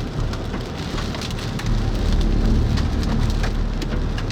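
Rain pelting a vehicle's body and windows, with many sharp scattered hits, likely hailstones, over a steady low rumble of wind and the vehicle.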